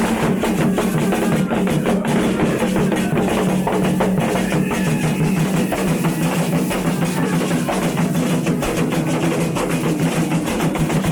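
Music with dense, steady drumming and percussion.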